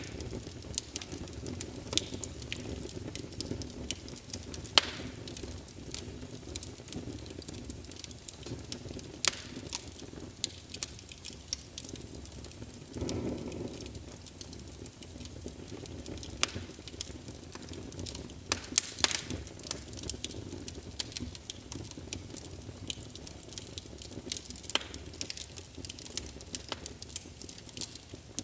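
Wood fire crackling in a fireplace: irregular sharp pops and snaps over a steady low rumble of flames, with a short swell of flame noise about halfway through.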